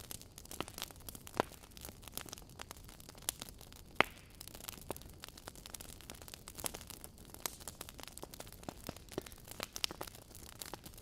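Wood logs burning in a fireplace, crackling with irregular sharp pops over a low steady hiss; the loudest pop comes about four seconds in.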